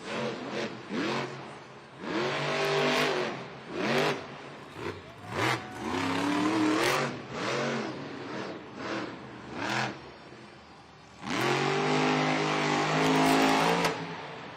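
Monster truck's supercharged V8 engine revving in repeated throttle bursts, the pitch rising and falling with each blip, then one longer held rev about eleven seconds in.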